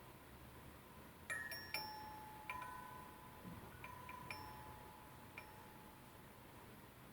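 AMAOTO rain-sound chime ringing: about six light metallic pings scattered between one and five and a half seconds in, each ringing on briefly, the first two the loudest, like drops of rain.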